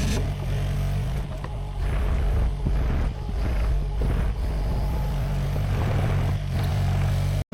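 Sany SY50U mini excavator's diesel engine running steadily under working load, with irregular knocks and scrapes from the bucket digging dry dirt. The sound cuts out for an instant near the end.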